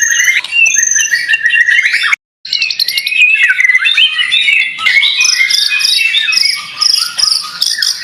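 White-rumped shama (murai batu) singing a fast, varied 'fighter' song of whistled phrases, chips and rapid trills. The song breaks off into total silence for a moment just after two seconds in, then resumes just as densely.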